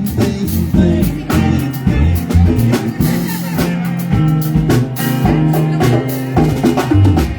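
Live band playing a song, with a drum kit keeping a steady beat under guitar.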